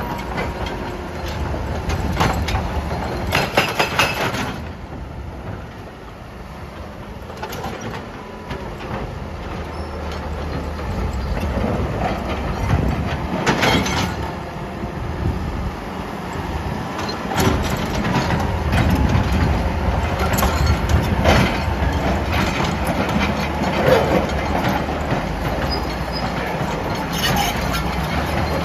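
Excavator's diesel engine running with irregular clanks and knocks of rock against steel.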